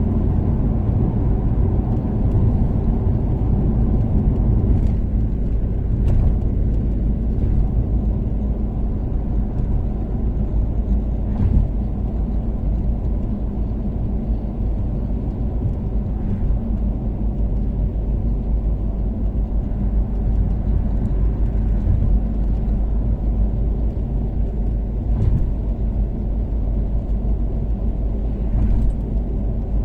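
Toyota Caldina's turbocharged 3S-GTE four-cylinder engine and tyre noise while cruising on an expressway, a steady low rumble. A few faint ticks come at irregular intervals.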